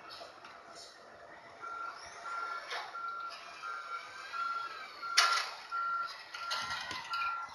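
Garbage truck's reversing alarm beeping steadily, about one and a half beeps a second, starting a couple of seconds in. A loud metallic clank about five seconds in, with lighter clattering around it.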